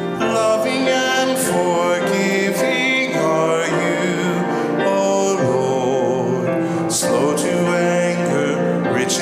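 Singing with instrumental accompaniment: a sung piece of church music during a worship service.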